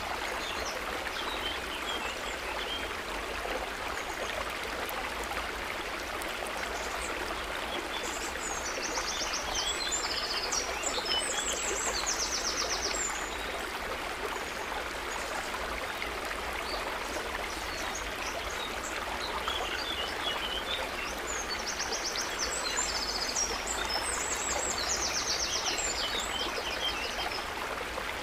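Gently trickling water, a steady bubbling rush. Twice, small birds add bursts of high chirps and rapid trills over it for several seconds.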